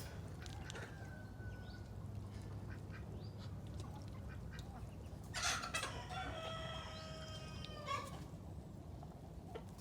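A rooster crowing once, about halfway through, one long call of about two and a half seconds, over a steady low hum.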